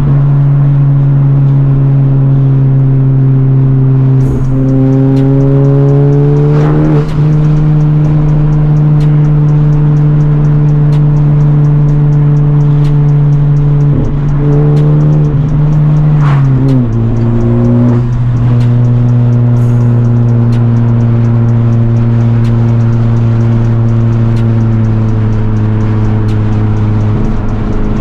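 Modified Honda Civic Type R's turbocharged four-cylinder engine and straight-through exhaust (catless downpipe, resonator delete) cruising at steady revs with a constant drone. The revs climb a few seconds in and drop about two-thirds of the way through.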